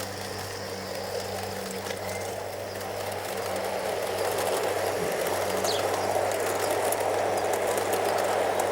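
O gauge model locomotive running on garden railway track: a steady low hum with a rolling rumble of wheels on rail that grows louder about halfway through as the train draws near. A bird chirps once briefly.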